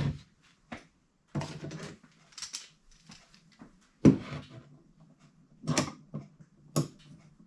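Clamps being set on a glued-up wooden box and tightened: a scattering of knocks and clicks of metal and wood, the sharpest about four seconds in.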